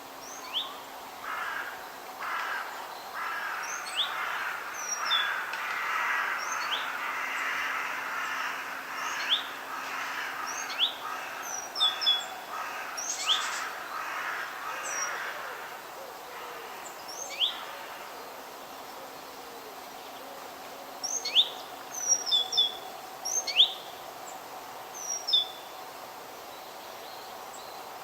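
Forest birds calling: short, sharp, rising chirps repeated throughout, coming in a quick cluster near the end, over a softer, hissy chattering that fades out about halfway through.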